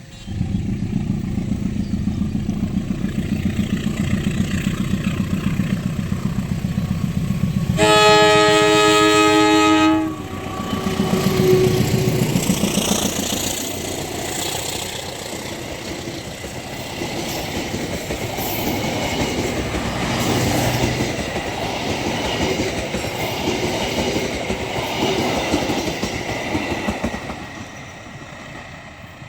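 A diesel locomotive's engine comes up loud, then its horn sounds one steady two-second blast about eight seconds in. The locomotive passes with a dip in pitch, and its coaches roll by with a rhythmic clatter of wheels over rail joints that fades near the end.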